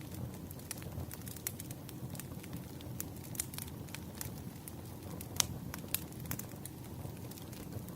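Campfire burning: a steady low rumble of flame with irregular sharp crackles and pops from the wood, two louder pops a little past the middle.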